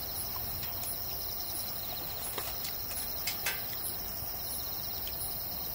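Crickets and other insects trilling steadily, with a higher chirp repeating a little faster than once a second and a few faint clicks near the middle.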